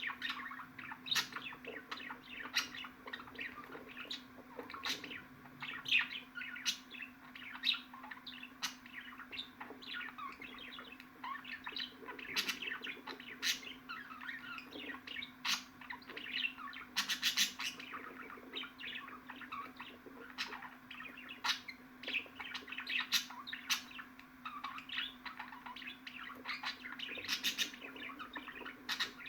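Budgerigars chattering, with rapid chirps and warbling and frequent short, sharp high calls, over a steady low hum.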